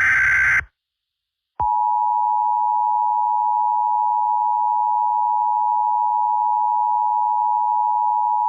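The tail of an Emergency Alert System SAME header, a short burst of harsh digital data tones, is followed after a second of silence by the EAS attention signal. This is a steady two-tone alarm of 853 and 960 Hz sounded together, and it begins about a second and a half in and holds unchanged to the end. It is the standard warning that an emergency broadcast message is about to follow.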